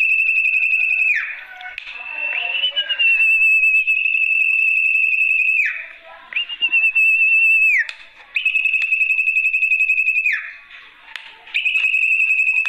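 Sertu (zepo) bird lure call: a high, fast trill held at one pitch for one to three seconds and repeated five times with short gaps. Two of the trills end in a quick falling slur.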